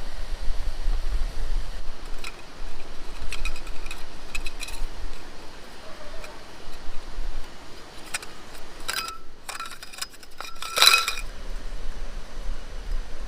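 Light clinks of small hard objects, metal or glass, being handled, each with a brief ringing tone. They come in small groups a second or so apart, and the loudest cluster is near the end, over a steady background hiss.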